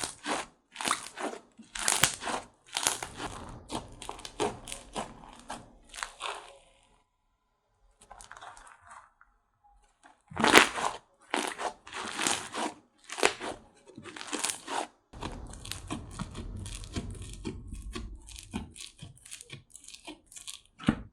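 Slime being squished and pressed by hand, giving quick runs of crisp crackling pops, with a short pause partway through.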